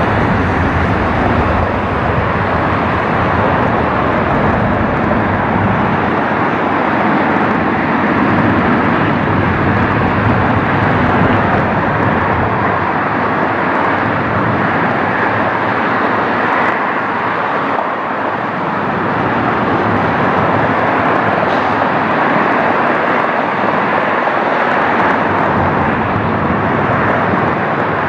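Jet airliner engines running loud and steady, a continuous rushing noise with no breaks.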